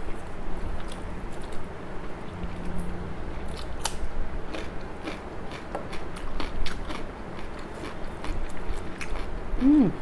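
A person chewing and crunching food close to the microphone, with irregular crisp crunches and small mouth clicks, thickest in the middle.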